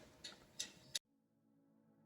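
Near silence: faint room tone with a couple of small clicks, cutting to dead silence about halfway through.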